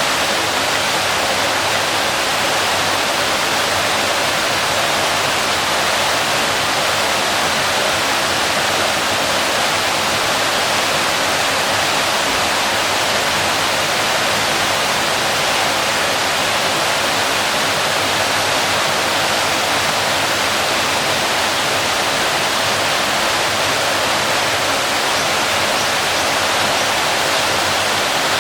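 Waterfall: water falling and crashing in a steady, loud rush with no change.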